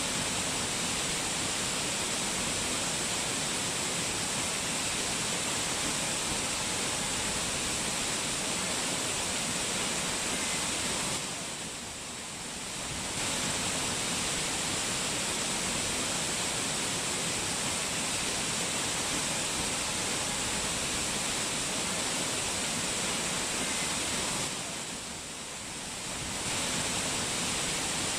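Steady, hissing rush of fast-flowing mountain water, like a waterfall, falling off briefly twice, about 12 and 25 seconds in.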